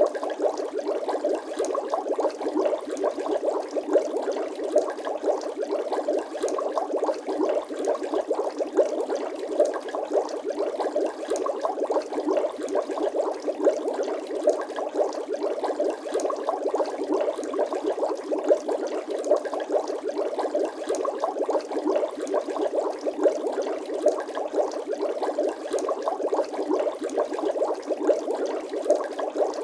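Bubbling water sound effect: a dense, steady stream of many small bubble plops and gurgles.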